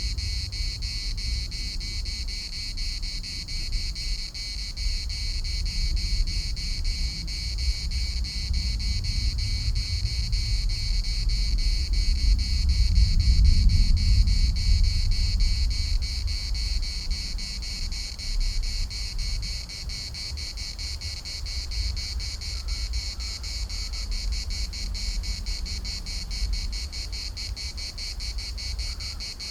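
Chorus of cicadas: a steady, rapidly pulsing high buzz. Wind buffets the microphone with a low rumble that swells about halfway through.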